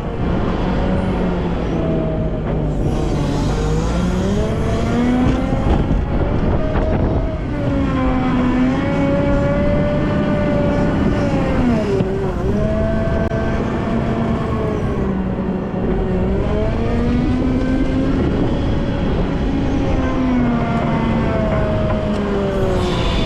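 Volvo L90F wheel loader's diesel engine revving up and down over and over, its pitch rising and falling every few seconds over a steady low rumble.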